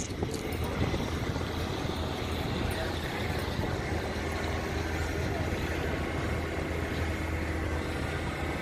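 A car engine idling steadily with a constant low hum, with faint voices in the background.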